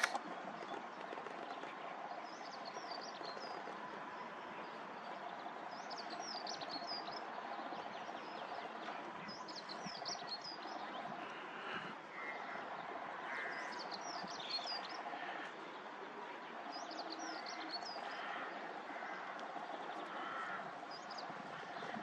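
Birds chirping in short bursts of high, quick notes every few seconds, over a steady background of outdoor noise.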